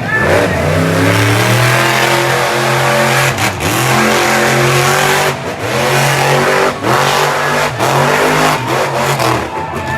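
Monster truck engine revving hard, its pitch sweeping up and down, with the throttle dropping off sharply and picking up again about four times.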